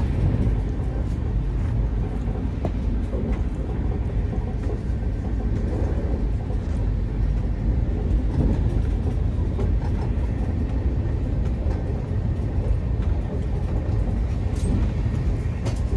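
Steady low rumble of an express train running at speed, heard from inside a closed AC First Class coach.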